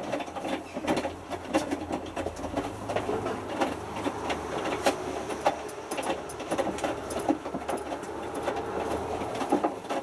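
Hotpoint Futura HF8B593 washing machine in its main wash, the drum turning a small load of three t-shirts through the wash water. Motor hum under irregular sloshing and small knocks.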